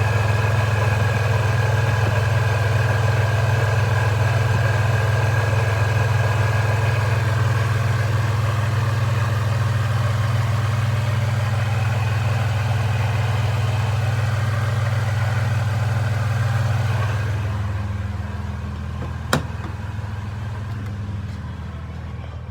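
Supercharged Toyota 3.4-litre V6 idling steadily during warm-up after a cold start. Near the end the engine sound drops and becomes duller, and a single sharp click is heard.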